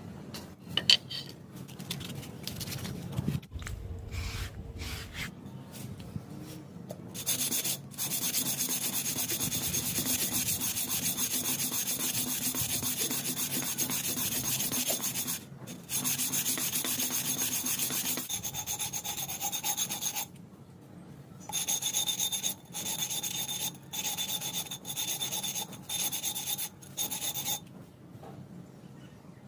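A few handling knocks and clicks, then a handheld electric grinder abrading metal with a steady high whine: one long run, a brief pause, another run, then several short bursts near the end.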